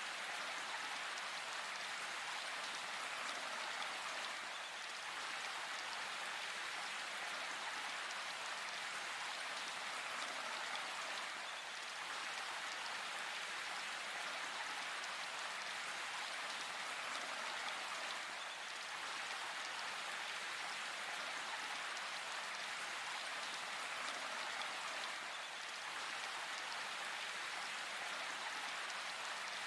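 Steady rain falling in a forest, an even hiss that holds with only slight swells.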